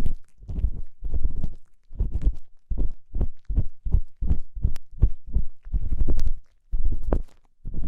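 An ear-cleaning tool scraping and rubbing against a microphone's ear, close up, in quick dull strokes about three a second, with a short pause near the end.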